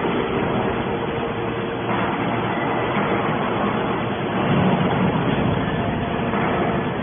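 Y81/Q hydraulic scrap metal baler running: a steady machine hum with a few held tones, swelling a little about halfway through.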